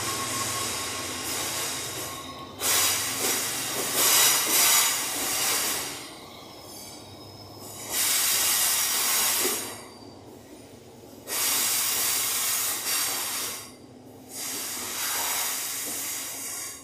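Freight wagons passing close by, their wheels squealing and hissing in repeated loud bursts of a couple of seconds each over a steady rumble. The sound falls away as the last wagon clears, near the end.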